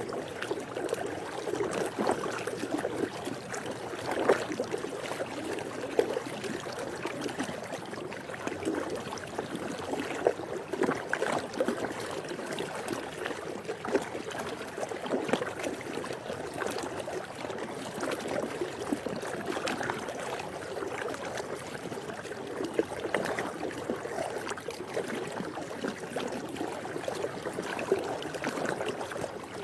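Swimming pool water lapping and sloshing steadily, with many small irregular splashes.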